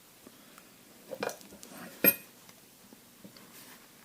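Metal tools and parts being handled: a few light knocks, then one sharp ringing metallic clink about two seconds in.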